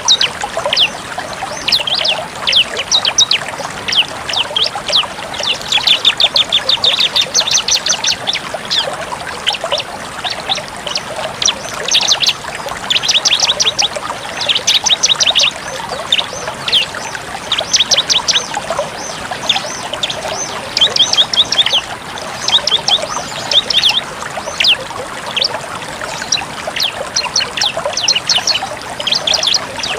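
Bar-winged prinia (ciblek) singing in fast, high trills, run after run of rapid sharp notes in the full 'tembak' style, over a steady trickling-water sound.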